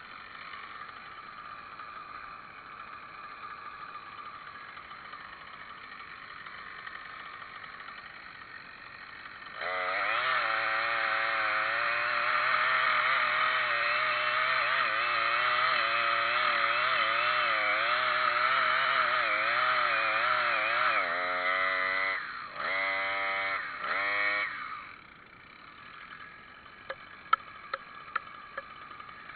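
Two-stroke chainsaw idling, then opened up to full throttle for about eleven seconds, its pitch wavering as it works. It revs up and down a few times and drops back to idle, with a few sharp clicks near the end.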